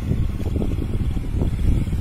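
Motorcycle engine idling steadily, a low, even pulsing.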